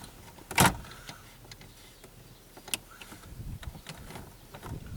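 A sharp plastic click about half a second in, a fainter click near three seconds, and soft handling noises as a headlight switch's plastic retaining clip is pried at by hand.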